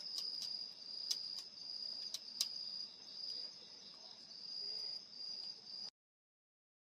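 Crickets trilling steadily on one high pitch, with sharp pops from a crackling wood fire in a small fire pit. The sound cuts off suddenly near the end.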